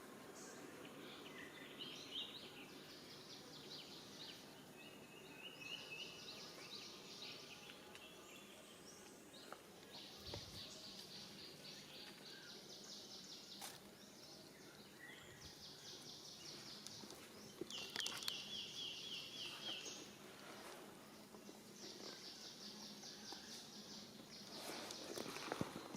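Outdoor natural ambience: repeated fast, high trills and short runs of chirps from birds or insects over a steady background hiss, with a few louder chirps around the middle and near the end.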